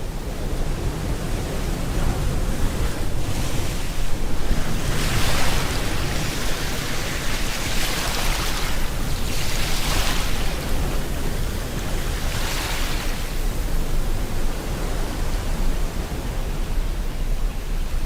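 Ocean surf breaking and washing in, swelling and receding about four times over a steady hiss of rain.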